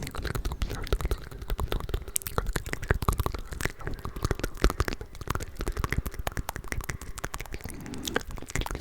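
Layered close-miked ASMR mouth sounds: a dense, unbroken stream of wet clicks and smacks from several overlaid tracks, with unintelligible whispering underneath.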